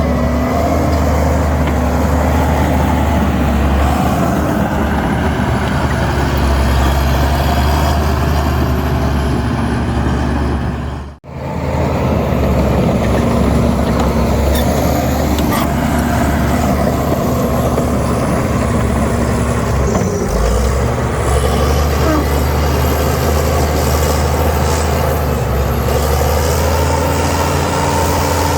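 Heavy diesel engines of earthmoving machinery running steadily, with one brief sudden gap about a third of the way through.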